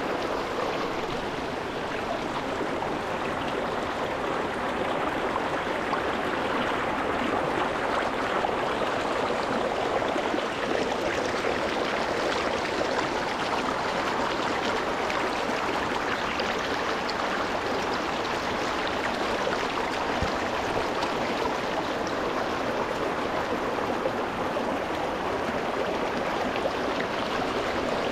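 Rocky mountain stream flowing over stones, a steady, close rushing and babbling of water.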